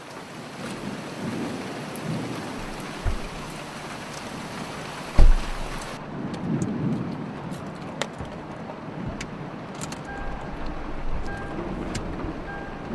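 Rain falling steadily on a car, with rumbles of thunder and scattered sharp drops. A heavy low thud about five seconds in is the loudest moment. Faint short tones repeat in the last few seconds.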